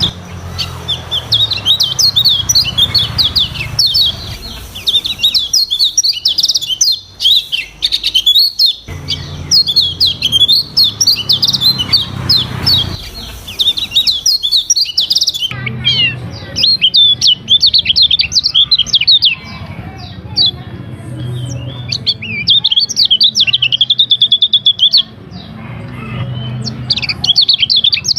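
Kecial kuning (yellow-spectacled white-eye) singing a fast, varied twittering song in repeated bursts with short pauses, mixing in canary-like phrases, over a low hum.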